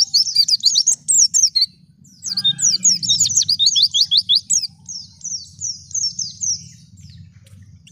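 Wild white-eye (pleci) singing a fast twittering song of rapid high chirps, in two runs with a short pause about two seconds in, then trailing off into softer, spaced notes near the end. A low steady rumble sits underneath.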